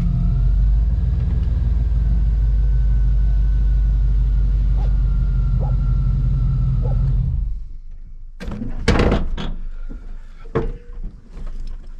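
OBS Chevy pickup running with a steady low rumble, which cuts off about seven seconds in. A few sharp knocks and thuds follow.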